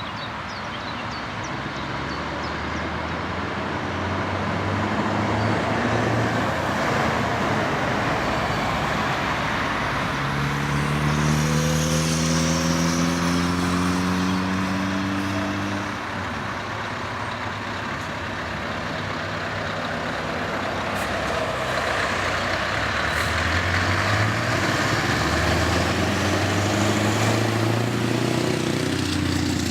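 Scania R500 V8 diesel truck engine running under way, its note rising as it accelerates about a third of the way in, then easing off and building again near the end.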